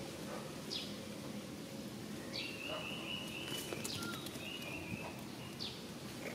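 Outdoor ambience with a bird repeating a short, high, falling call about every second and a half. A longer high call wavers on one pitch for about three seconds in the middle.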